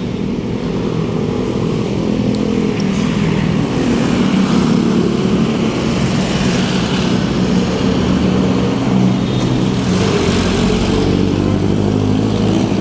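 Road traffic: motor vehicle engines running close by in congested city traffic, a steady low engine hum over road noise, with the low rumble growing heavier about ten seconds in.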